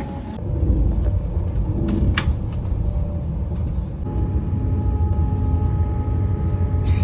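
Electric passenger train running, heard from inside the carriage: a steady low rumble, with a steady whine joining about four seconds in.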